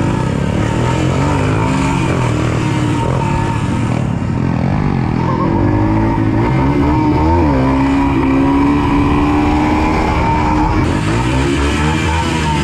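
Small single-cylinder four-stroke pit bike engines running under way, their pitch rising and falling as the throttle is worked.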